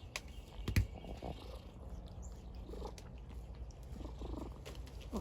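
A domestic cat purring steadily, close to the microphone. A single sharp click sounds a little under a second in.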